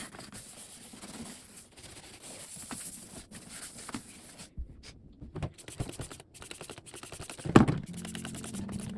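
Faint, irregular scraping and rubbing of household items being handled, with a loud thud about seven and a half seconds in, after which background music comes in.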